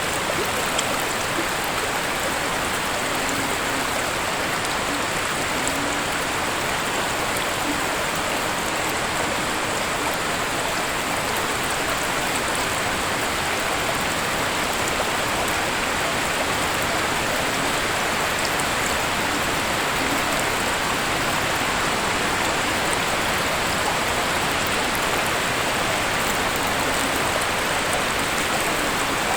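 Waterfall, its falling water rushing in a steady, unbroken hiss.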